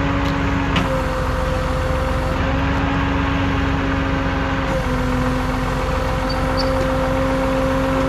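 Tow truck's engine running at idle, a steady rumble with a steady whine held on one pitch over it.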